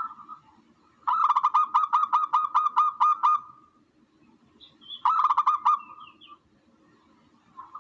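Tukmo (dove) call played as a hunting lure: a rapid run of about a dozen clipped notes over two seconds, then a shorter run of the same notes about five seconds in, with a few faint higher chirps around it.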